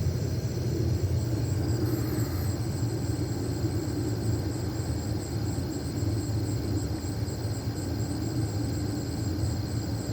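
Steady low rumble with a continuous, high-pitched chorus of night insects above it.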